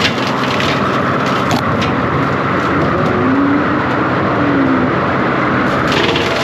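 John Deere 333G compact track loader's diesel engine running hard with its hydraulics working, a whine rising and falling in the middle and a scratchy hiss near the start and again near the end.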